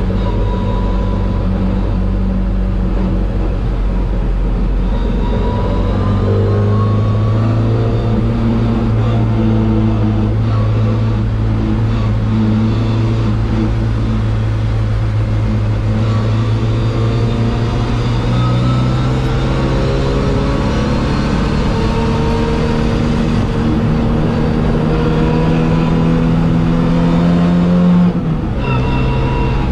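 MGB race car's four-cylinder engine heard on board under hard acceleration, its note climbing slowly and steadily. Near the end the pitch drops suddenly as it shifts up a gear.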